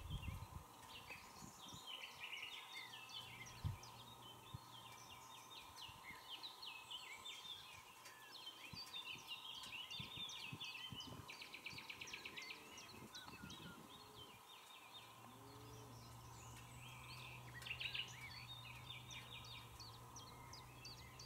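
Faint chorus of songbirds, many quick overlapping chirps and trills that go on without a break, over a low steady hum.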